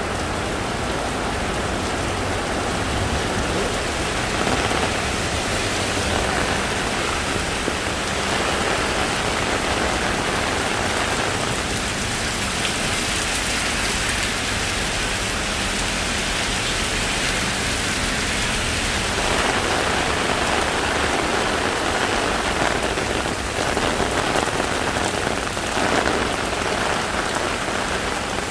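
Heavy rain pouring steadily, a dense even hiss of rain hitting surfaces.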